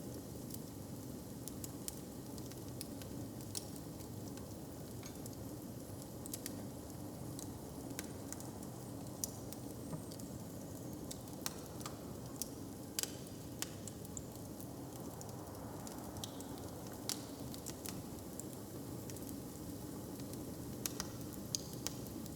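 Wood fire crackling: scattered sharp pops and snaps, a few louder than the rest, over a steady low background rush.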